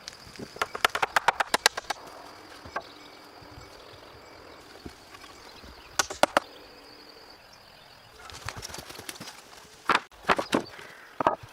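Hand-tool building work: a quick run of sharp knocks and taps, a pair of knocks later, a stretch of scraping, then more knocks, with a faint steady high tone under the first half.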